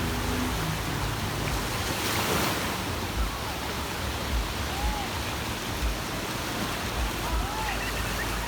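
Sea waves washing onto a beach, a steady rushing surf that swells to a louder wash about two seconds in, with low rumbling wind buffeting the microphone.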